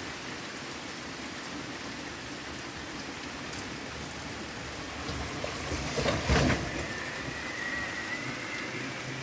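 Steady rain falling, an even hiss. About six seconds in there is a short, louder rumbling burst, and after it a faint, thin, high steady tone that lasts to the end.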